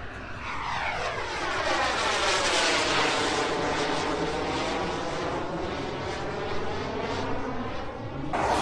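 An airplane flying past, its engine noise swelling and fading with a sweeping, phasing whistle as it goes over. Near the end a sudden loud whoosh cuts in.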